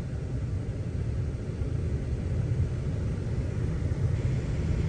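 500-cubic-inch V8 engine running steadily at a raised idle of about 1200 rpm, a low, even rumble.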